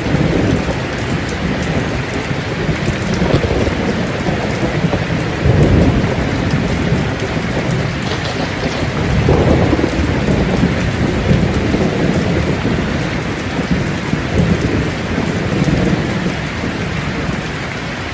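Steady heavy rain falling, with low rolling thunder that swells up several times.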